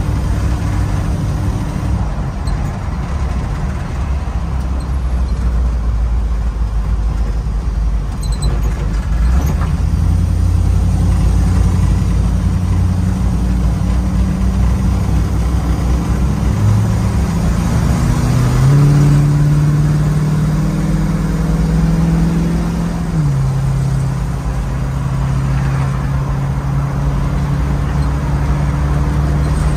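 1973 Ford Bronco's engine and road noise heard from inside the cab while driving. Partway through, the engine note climbs as the truck accelerates onto the freeway, then drops once to a lower, steady note.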